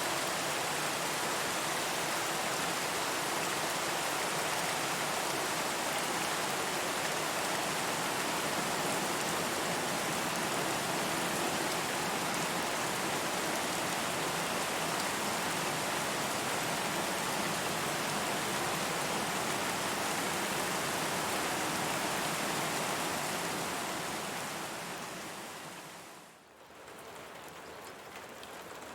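Steady rain, an even dense hiss of falling drops. Near the end it fades down to a brief dip and comes back in quieter.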